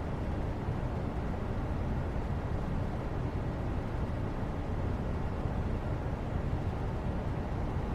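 Steady low rumbling background noise with no changes, heaviest in the bass: the ambient noise bed of a study session.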